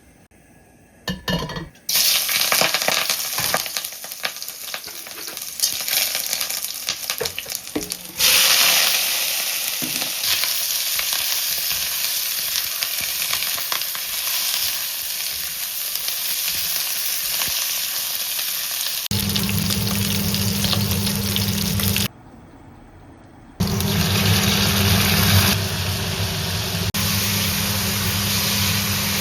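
Pork ribs frying in hot oil, a steady sizzle with crackles, starting about two seconds in and growing louder about eight seconds in. A steady low hum joins about two-thirds of the way through.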